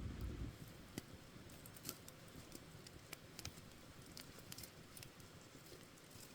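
Campfire crackling: burning wood giving off sparse, irregular sharp pops and snaps over a faint hiss. A low rumble dies away about half a second in.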